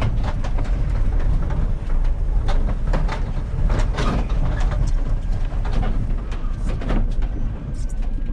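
Scrap metal clanking and knocking irregularly over a steady low rumble of a vehicle.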